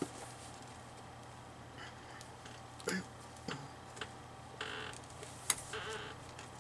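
Faint craft-table handling: scattered light taps and clicks, with two short paper rustles past the middle and near the end.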